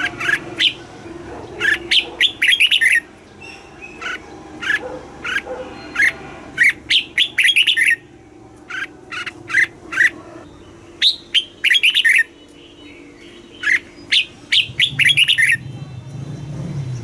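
Red-whiskered bulbul singing: quick phrases of short, bright whistled notes, one every second or two with short pauses between them. A low rumble comes in near the end.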